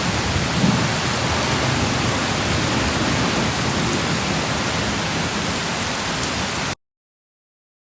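Steady heavy rain with a low rumble of thunder underneath, a slight swell about half a second in. The sound cuts off suddenly near the end.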